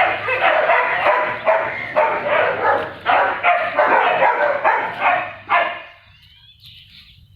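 Dogs barking over and over in quick, overlapping barks that stop about six seconds in.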